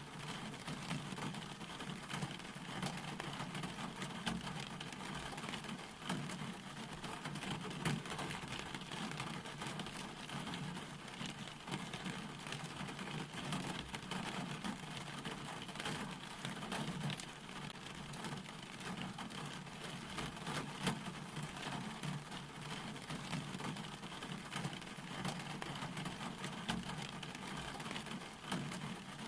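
Steady rain falling, with a dense patter of individual drops landing.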